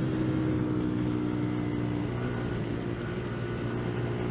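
CFMoto Papio's small single-cylinder engine running at steady revs while the bike is ridden, with road noise from the wet surface underneath.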